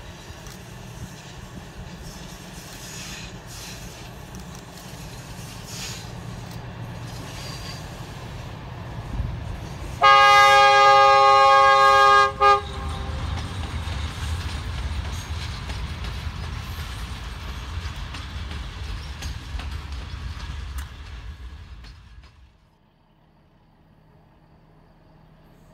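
A train running with a steady low rumble. About ten seconds in, the locomotive's horn sounds one loud blast of about two and a half seconds, followed at once by a short toot. The rumble then carries on and drops away abruptly near the end.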